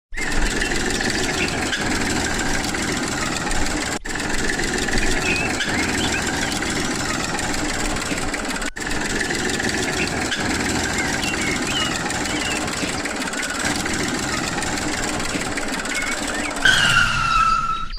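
A small motor running steadily, broken by two sudden cuts, with a different sound carrying a falling tone near the end.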